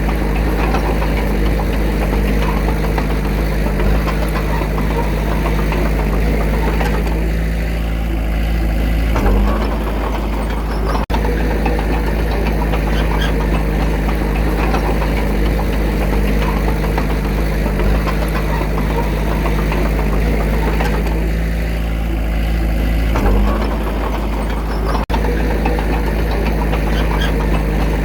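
Diesel engine of a small Komatsu D21A bulldozer running steadily, its pitch shifting briefly twice, about fourteen seconds apart, as the load changes.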